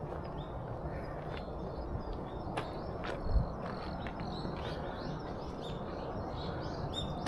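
Small birds giving scattered short chirps over a steady low outdoor rumble, with a single thump about three and a half seconds in.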